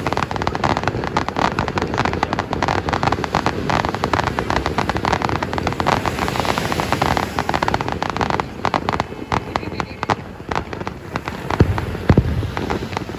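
Aerial fireworks display: a dense, rapid crackle of many small sharp reports, with a few heavier booms near the end.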